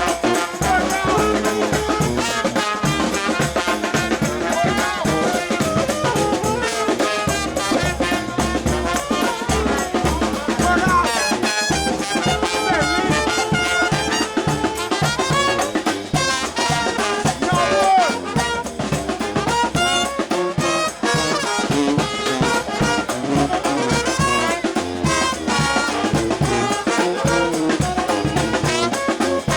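A New Orleans brass band playing a lively street tune: brass horns over a steady drum beat, with no break.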